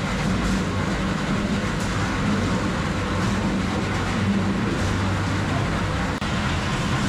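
Ice crusher running, breaking ice blocks into small pieces: a steady mechanical hum under a continuous noisy grind.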